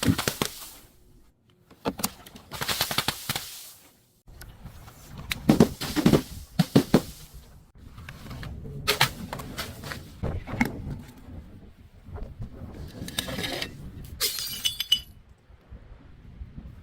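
Glass bottles being crushed and broken: a series of separate crunching, shattering bursts with short pauses between them, ending in a spell of fine crackling of glass pieces about two-thirds of the way through.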